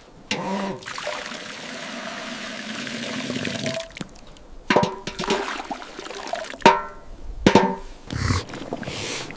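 Water pouring for about three and a half seconds, then several sharp knocks, each with a short ring.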